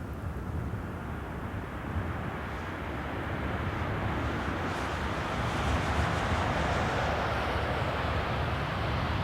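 Jet airliner engines, a steady rush over a low rumble that grows gradually louder as the aircraft approaches.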